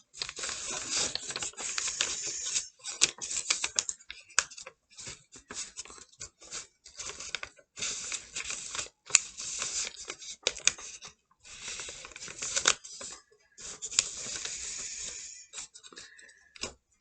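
A sheet of paper being folded and creased by hand: rustling and crackling in irregular bursts with short pauses between them.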